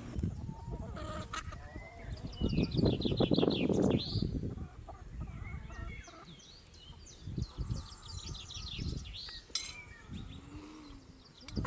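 Birds calling in repeated quick, high trills several times, over low thumps and rustling that are loudest about three seconds in.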